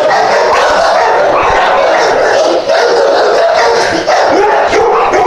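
Several dogs barking at once, one bark over another, in a loud, unbroken din.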